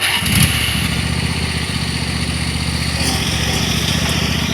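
Small tractor engine running steadily.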